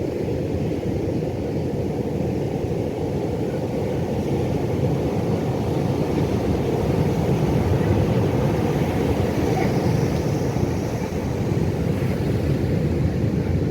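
Pacific Ocean surf: a steady low rumble of waves, swelling slightly partway through.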